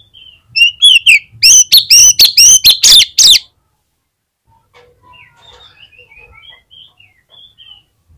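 Oriental magpie-robin (kacer) singing: a loud run of about eight sharp, rapidly repeated whistled notes, then after a pause softer, quick twittering phrases.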